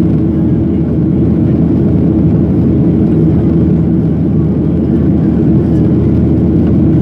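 Steady, loud drone of a Boeing 737-800's CFM56 engines and rushing air, heard inside the passenger cabin and strongest in the low range.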